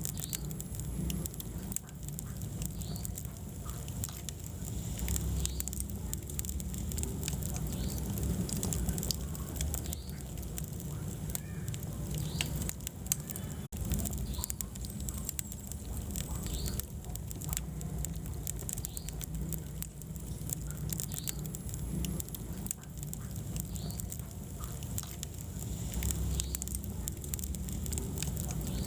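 Wood fire burning in a fireplace: a steady low flame rumble with frequent small crackles and pops of burning wood.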